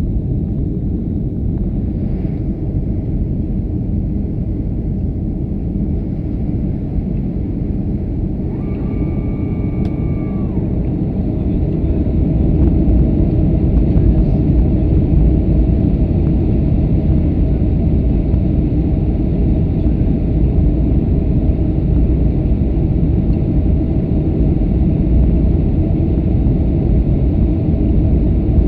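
An airliner's steady low rumble of engines and airflow during a landing, growing louder about 12 seconds in. A brief steady tone sounds about 9 seconds in.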